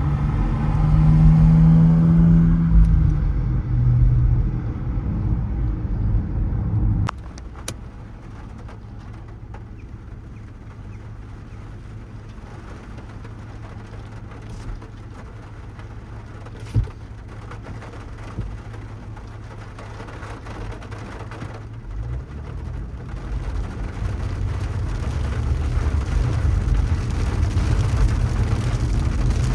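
Car driving in city traffic: engine and road rumble with a rising and falling engine note, dropping suddenly to a quiet steady hum about seven seconds in, then building again as the car speeds up over the last several seconds.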